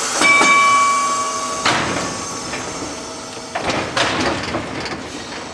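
Vintage electric trolley car starting to move under power: a steady whine for about a second and a half over a rushing noise. A second burst of rattling noise comes about three and a half seconds in.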